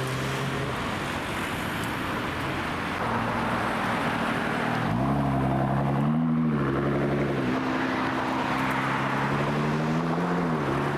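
Engine of a modified car running at low revs, its pitch rising and falling briefly twice: a short push on the throttle in the middle and another near the end.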